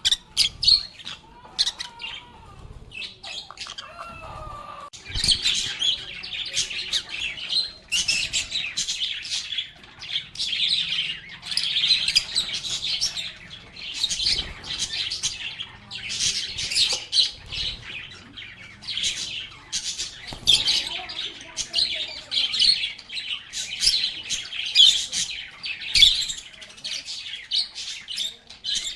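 A flock of lovebirds chirping and chattering in rapid, high calls with some squawks. The first few seconds hold sparser calls, a few of them gliding. From about five seconds in, the chatter is near-continuous.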